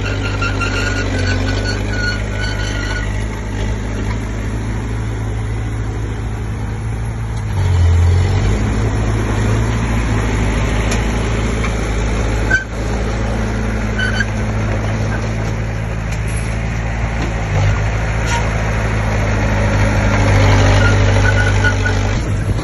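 Bulldozer diesel engine running steadily under load, the engine note swelling briefly about eight seconds in and again near the end, with a faint repeating squeak near the start and end.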